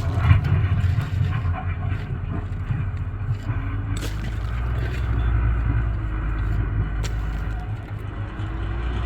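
Tractor engine running steadily under load, with a few short knocks and scrapes on top.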